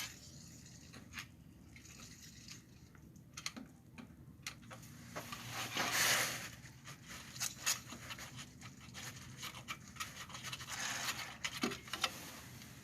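A short hiss from an aerosol can of PB Blaster penetrating oil, sprayed once about halfway through, with a fainter spray near the end. Light clicks and taps of handled tools and parts around it.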